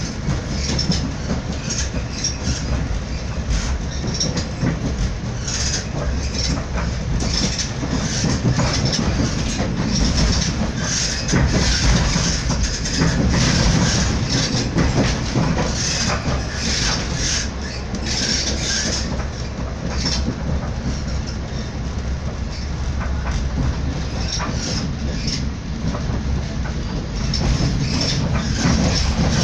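Srbija Voz passenger train running along the track, heard from inside the carriage: a steady low rumble with many irregular clicks and rattles from the wheels and carriage.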